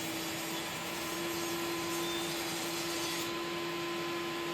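A power saw's motor running steadily with a constant high hum and an even whir, cutting a curve into the plywood base of a table saw sled.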